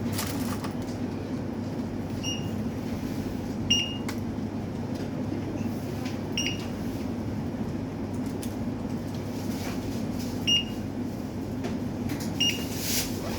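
Self-checkout barcode scanner giving a short high beep every two to three seconds as groceries are scanned, with item-handling clicks over a steady store hum.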